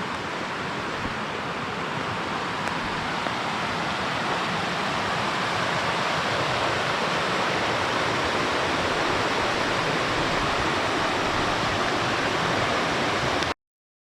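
River water rushing: a steady, even roar that grows a little louder over the first few seconds and cuts off suddenly near the end.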